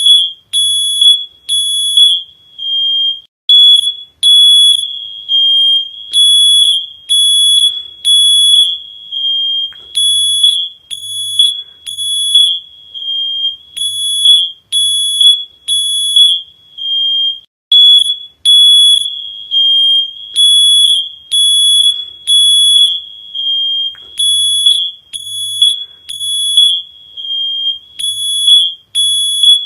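Smoke alarm sounding: a loud, shrill, high-pitched beep repeating about every half second with short breaks between groups of beeps.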